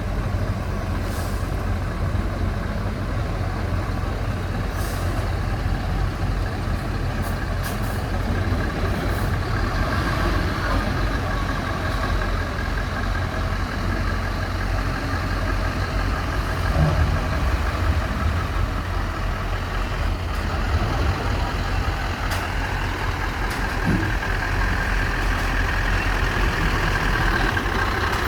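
Heavy vehicle running with a steady low rumble, with a few faint ticks over it.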